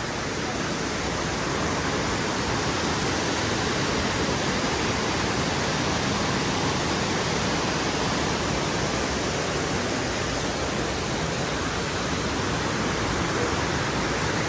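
Water rushing steadily over rocks, a close, even roar of a stream or small waterfall.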